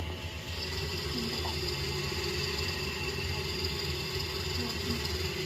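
Steady mechanical hum, joined about half a second in by a higher, steady whine.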